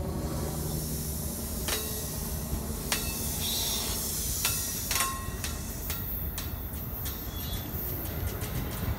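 NJ Transit train passing on the rails, with steady low rumble and sharp wheel clicks over rail joints that come faster in the second half. A thin, high-pitched wheel squeal sets in about halfway through.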